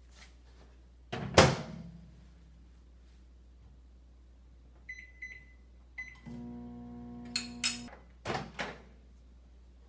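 Microwave oven being set going: a loud bang of the door shutting, three short high keypad beeps, then the oven's steady hum for about two seconds, followed by a few sharp clicks and knocks.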